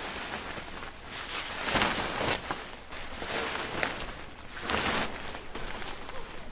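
Footsteps with rustling and crunching: a few uneven steps, roughly a second apart.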